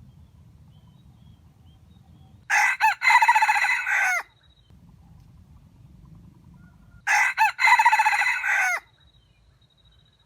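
A wild junglefowl rooster crowing twice, about four and a half seconds apart. Each crow lasts under two seconds and opens with a few short, broken notes before the main call.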